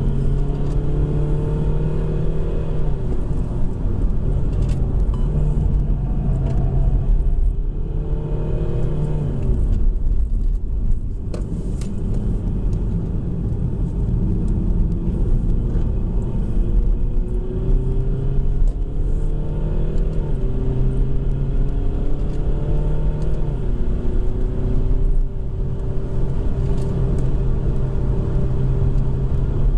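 BMW 120d's four-cylinder turbodiesel heard from inside the cabin under hard track driving. Its pitch climbs through the gears and drops back at each shift and when it eases off for braking, over steady rumble from tyres and wind.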